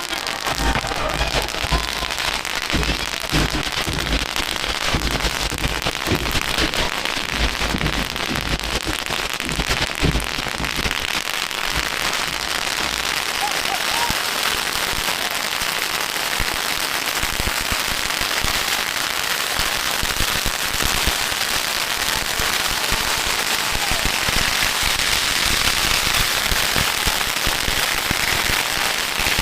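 Long strings of firecrackers going off in a dense, continuous crackle of rapid small bangs that keeps up steadily throughout.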